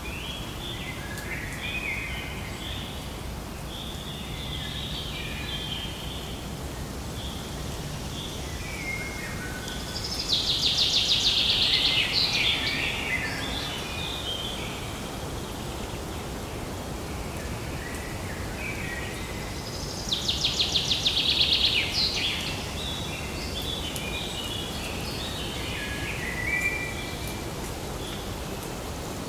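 Several birds chirping and calling in short, varied notes, with two loud, fast rattling trills, one about ten seconds in and another about twenty seconds in, over a steady low background noise.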